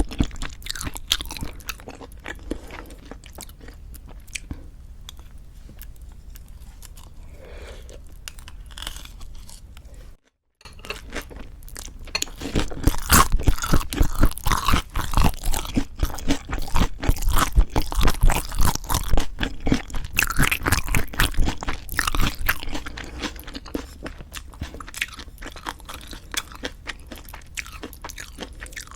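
Eating sounds: chewing and crunching food in the mouth, moderate at first. It cuts out for a moment about ten seconds in, then turns into loud, rapid crunching for about ten seconds before easing back to softer chewing.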